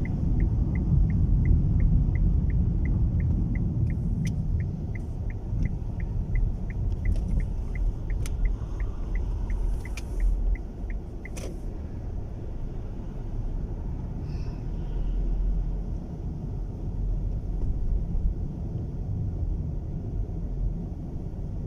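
Low rumble of road and wind noise inside a moving car's cabin. A turn-signal indicator ticks evenly, about four ticks a second, for roughly the first eleven seconds, then stops with a sharper click.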